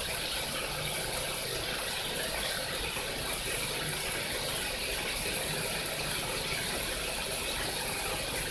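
Steady rush of running water, even throughout, with a faint low hum underneath.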